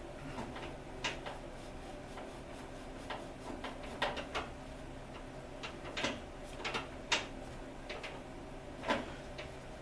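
Irregular light clicks and taps of valve-job parts being handled and set down on a workbench, over a faint steady hum.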